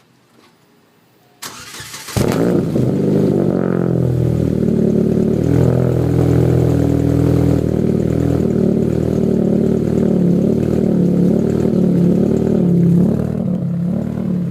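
Chevrolet Cobalt engine cranked by its starter about a second and a half in, catching around two seconds in and settling into a steady cold idle. It breathes through an aftermarket header, a ZZP downpipe with no catalytic converters and a 2.5-inch cat-back exhaust. The idle is a little bouncy while the engine warms up.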